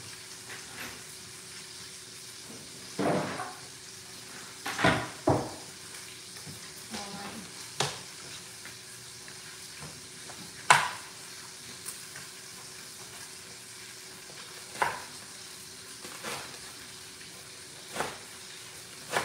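Steaks sizzling steadily in a hot pan on the stove. Now and then dishes and utensils give sharp clatters and knocks; the loudest comes near the middle.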